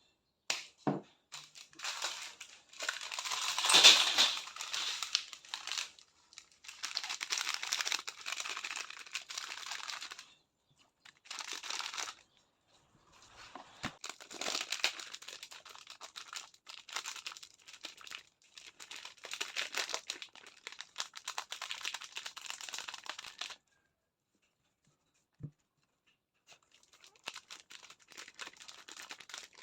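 Crinkling and rustling of material being handled, in several stretches of a few seconds each with short pauses between, loudest about four seconds in.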